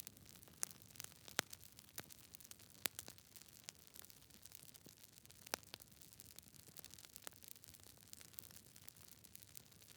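Wood campfire crackling: irregular sharp pops and snaps, a few noticeably louder than the rest, over a faint steady hiss.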